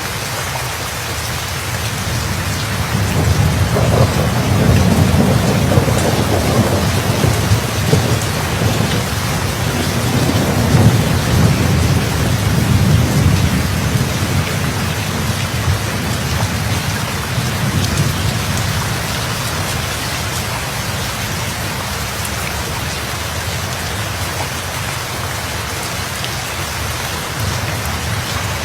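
Steady heavy rain, with a long roll of thunder that builds about three seconds in, rumbles for around ten seconds and fades back into the rain.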